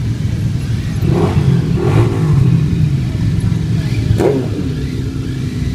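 Motor vehicle engines running close by, with a few short revs about one, two and four seconds in.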